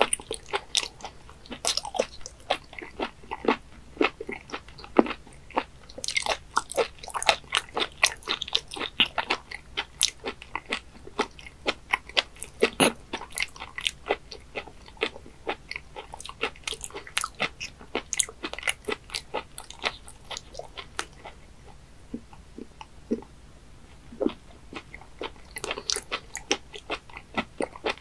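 Close-miked chewing of raw webfoot octopus with the mouth closed: a dense run of short, sharp mouth clicks, thinning out for a few seconds about three quarters of the way in.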